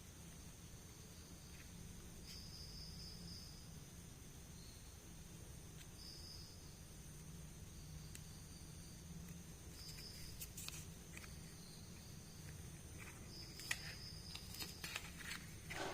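Quiet handling of small plastic toy pieces: a few light clicks and taps, mostly in the last few seconds, over a faint steady hum and a faint high chirping that comes and goes, like crickets.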